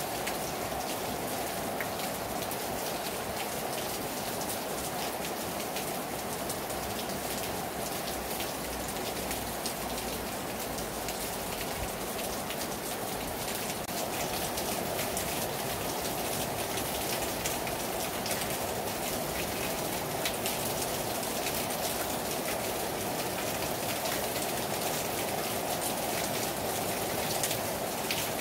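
Heavy rain falling hard on a terrace, a steady hiss of drops with many close individual drop ticks on the surface.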